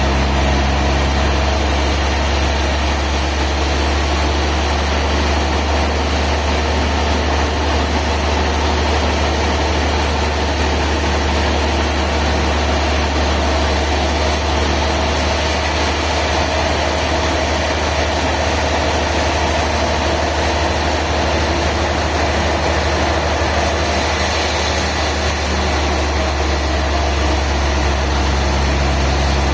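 Heavy engine running steadily at a constant speed, a deep, even drone with no revving.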